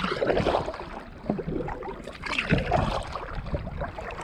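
A paddle dipping and splashing in lake water, stroke after stroke, with wind rumbling on the microphone.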